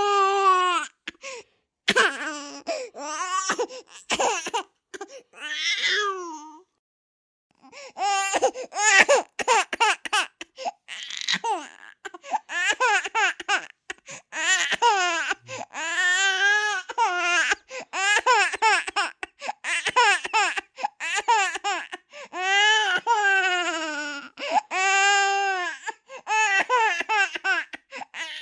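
A baby crying in repeated high-pitched wails, each rising and falling over about a second, with a brief pause about seven seconds in.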